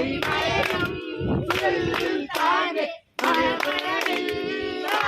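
A group of voices singing a Malayalam song unaccompanied, with hand clapping keeping time; the sound drops out briefly about three seconds in, then the singing picks up again.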